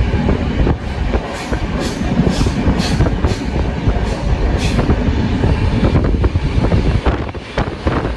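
Train running with a loud, steady rumble, broken by a run of brief hissing bursts about twice a second during the first half.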